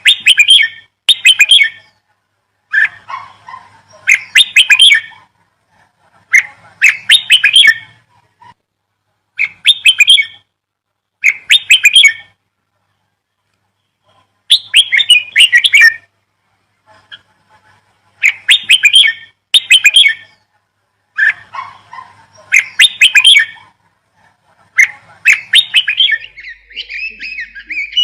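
A bird chirping in short repeated phrases of about a second each, with brief silent pauses between them; near the end it breaks into a longer, continuous warbling run.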